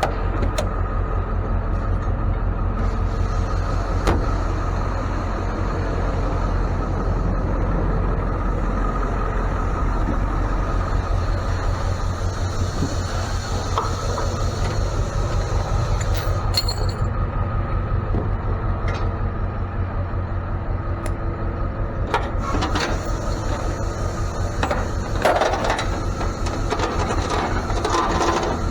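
Ford F-550 tow truck on the road: a steady low engine drone with a pulsing rumble and road noise, with scattered rattles and clicks, more of them near the end.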